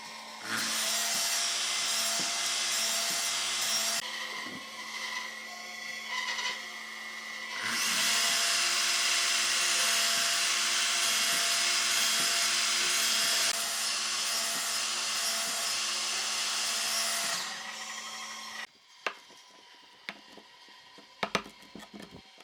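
Power tool working wood: a steady motor noise in two long stretches, with a lighter spell between them. It stops near the end and a few knocks follow.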